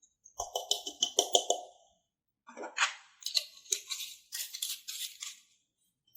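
Slime with sprinkles being squished and pressed by hand, giving quick runs of crackling pops in two bursts, the second starting about two and a half seconds in.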